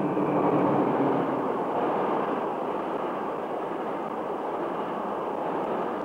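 Express train passing close by at speed: a steady rushing noise of wheels on rails, loudest in the first second or so.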